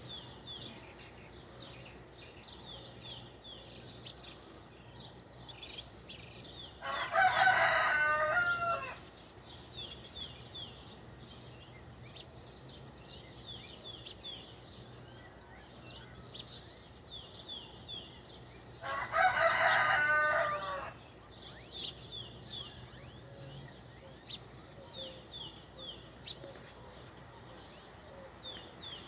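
A rooster crows twice, each crow about two seconds long and the loudest sound, roughly twelve seconds apart. Small birds chirp rapidly and without a break throughout.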